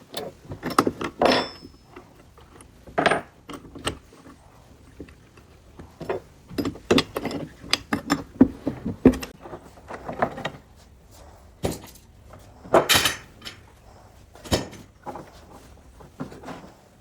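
Irregular clatter of hard objects being handled: separate knocks and clinks at uneven intervals, a few of them louder, with short ringing after some.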